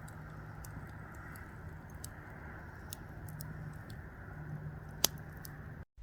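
Campfire crackling, with irregular small pops and one sharp, loud pop about five seconds in.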